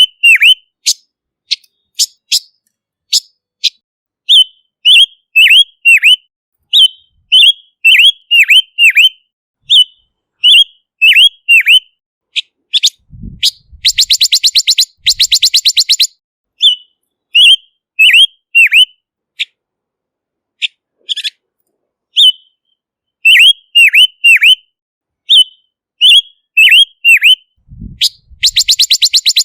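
Silver-eared mesia calling: short whistled notes that slur downward, given in twos and threes with short pauses. Twice, about halfway through and again near the end, the calls give way to a fast dry rattle, each time just after a brief low thump.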